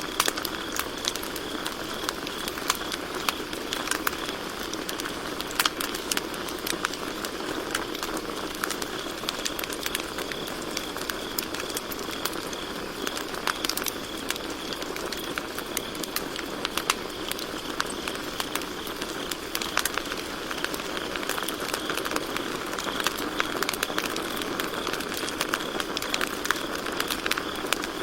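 Campfire crackling with frequent irregular sharp pops, over a steady high-pitched trill of crickets.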